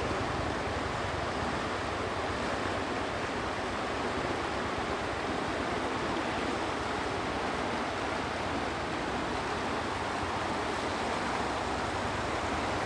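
River water rushing steadily, a continuous even roar of a wide, fast-flowing current.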